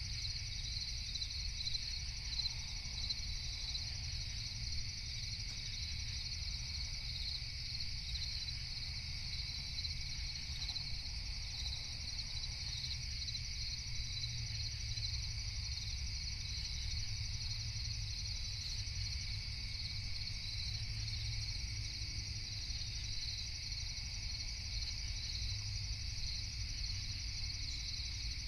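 A chorus of crickets chirping steadily through the night, a dense high trill that doesn't let up, over a steady low rumble.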